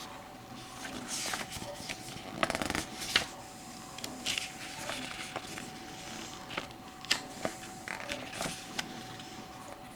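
Paper and cardboard rustling with scattered light clicks and taps: a CD booklet and its deluxe-edition packaging being handled and its pages turned.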